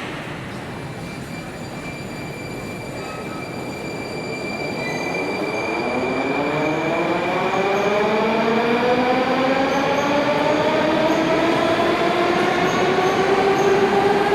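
Moscow Metro 81-740 Rusich train accelerating: its traction inverters and motors whine in a stack of tones that climbs steadily in pitch from about a third of the way in, over growing rail and wheel noise that gets louder throughout.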